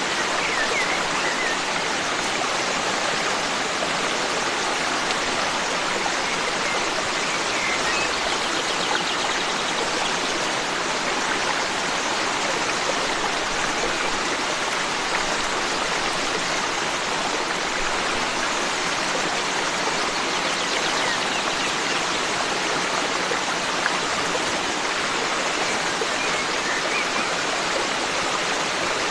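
Forest stream flowing steadily, an even rush of water, with faint bird chirps a few times.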